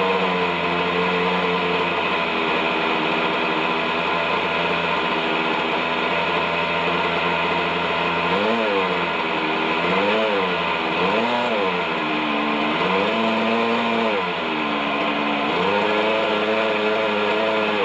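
Model helicopter's OS 61SF glow engine running at hover with its rotors, steady for the first half, then rising and falling in pitch about five times as the throttle changes.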